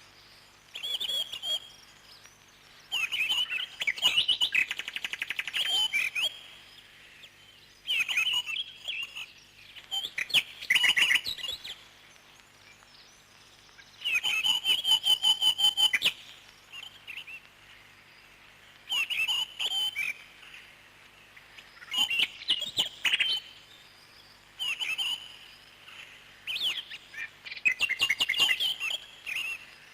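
Parrots chirping and calling in bursts of a second or two with short pauses between, some calls a fast rattling trill.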